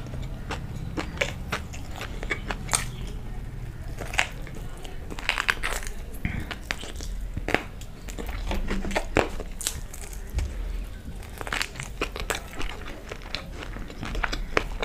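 Close-up eating sounds of someone chewing and biting fried, batter-coated chicken lollipop, with many short, irregular crunches and wet mouth clicks.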